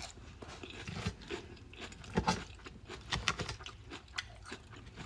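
A person chewing a mouthful of raw vegetable salad close to the microphone, with irregular crisp crunches and bites.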